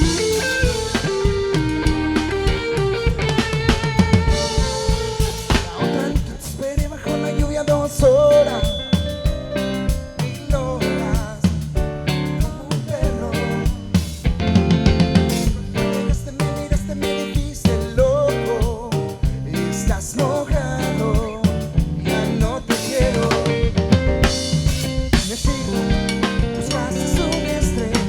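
Live rock band playing an instrumental stretch of a song through a PA system, led by a drum kit with snare and bass drum and wavering melodic lead lines over it.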